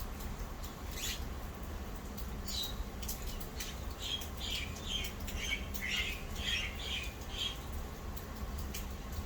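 Small birds chirping in short, quick calls, with a busy run of them from about four to seven and a half seconds in, over a low steady hum.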